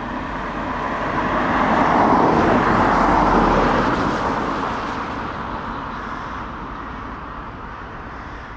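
A heavy truck driving past, its engine and tyre noise swelling over about two seconds to a peak, then slowly fading away.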